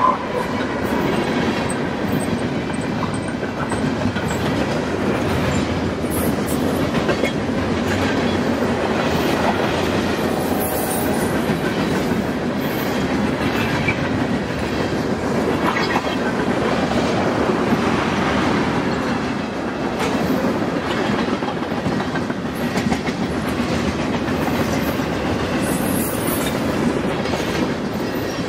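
Union Pacific freight train's boxcars, covered hoppers and tank cars rolling past: a steady rumble of steel wheels on rail, with irregular clickety-clack from the wheels.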